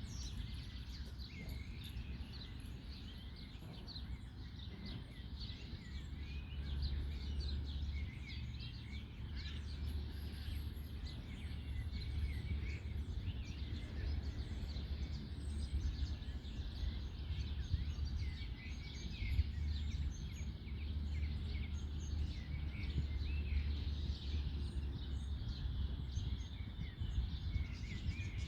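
Several birds singing and chirping in the trees, many short calls overlapping, over a steady low rumble of background noise.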